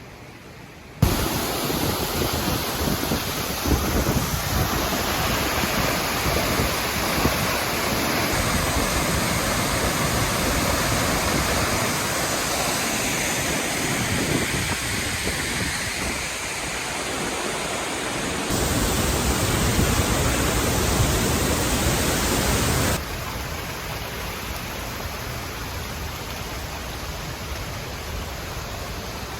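Waterfall rushing: a dense, steady wash of falling-water noise that changes abruptly in loudness and tone several times, about a second in, then three more times later on.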